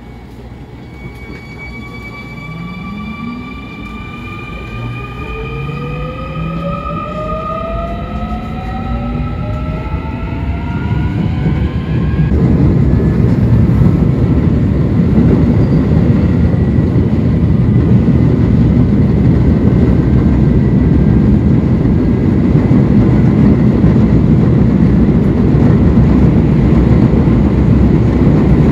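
Electric commuter train pulling away: the traction motors' whine climbs steadily in pitch as it accelerates for about ten seconds, then breaks off. From there on, the steady rumble of wheels on rail at speed fills the rest and keeps getting louder.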